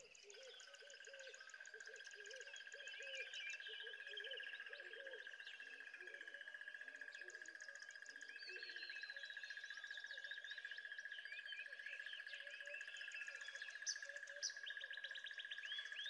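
Faint natural ambience: many small birds chirping and twittering over a steady high trill. Repeated low calls come in the first half.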